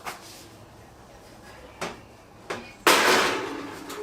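Kitchen clatter: a few light knocks, then a loud bang near the end that dies away over about a second, with another starting just after.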